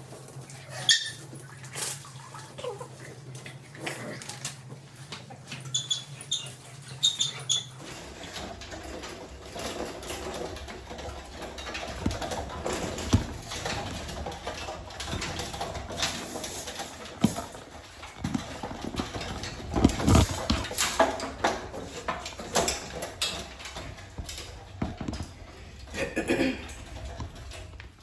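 American Bully puppies in a kennel whining and yipping, with scuffling and knocking of paws against the kennel and bowl.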